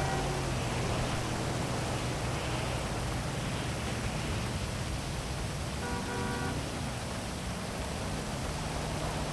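Steady heavy rain hiss over a low hum of city traffic, with a brief car horn toot about six seconds in.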